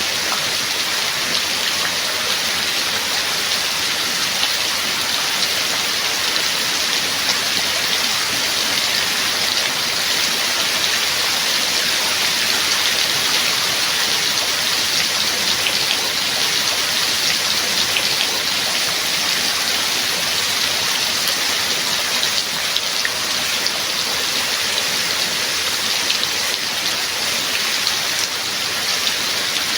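Steady rain: a dense, even hiss of falling rain with many fine individual drop ticks, unchanging throughout.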